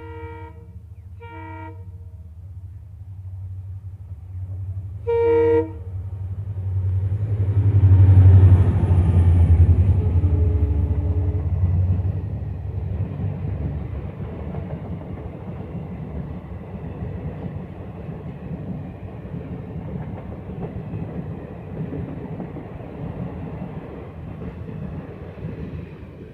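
EMD WDP4D diesel locomotive sounding its multi-tone horn three times: two short blasts, then a louder one about five seconds in. The engine's low rumble swells as the locomotive passes, loudest around eight to ten seconds in. The coaches then roll by with steady wheel clatter.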